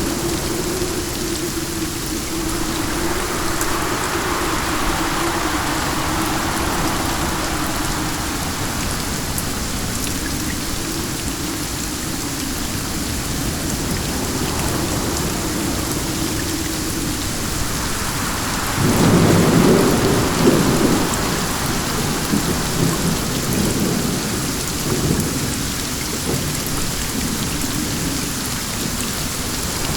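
Steady rain falling, with a roll of thunder that rumbles up loudly about two-thirds of the way through and fades away in a few rolls.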